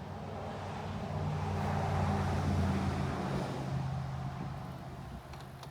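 A motor vehicle passing by: engine and road noise swelling to a peak a couple of seconds in, then fading as the pitch drops slightly.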